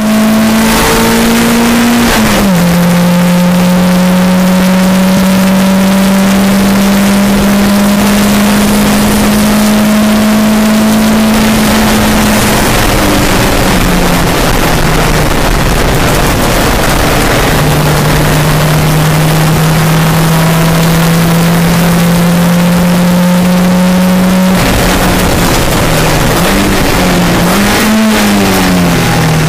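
Mk2 Volkswagen Golf's engine on individual throttle bodies, heard from inside the cabin under hard acceleration on track. There is an upshift about two seconds in, then the revs climb slowly, drop away around twelve seconds in, and climb slowly again. Near the end the revs fall with quick rises and falls as the car slows for a corner.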